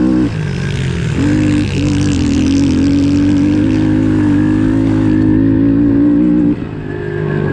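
Pit bike engine running hard at high revs. The note drops off briefly just after the start and again near the end as the throttle is chopped, then picks back up.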